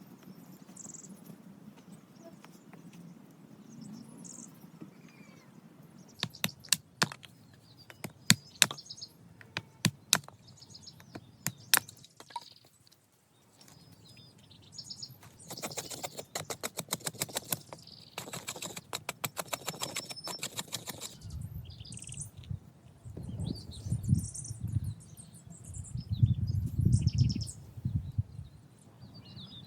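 Hand work on a shelter build: a run of sharp knocks about six seconds in, then a stretch of fast, even rasping strokes, then heavy low thuds near the end. Birds chirp faintly in the background.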